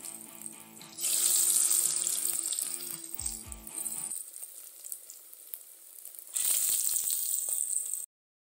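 Potato wedges sizzling as they fry in hot cooking oil in a metal pan. The sizzle is loud in two spells, from about a second in and again near the end, where it cuts off suddenly. Background music plays under the first half.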